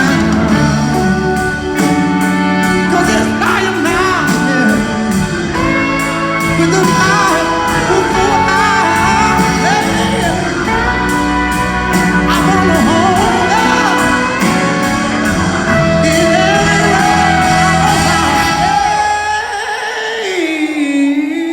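Live band playing an instrumental passage in a reverberant hall, with a lead line bending in pitch over the band. Near the end the bass and drums drop away, leaving a held note that slides down and settles.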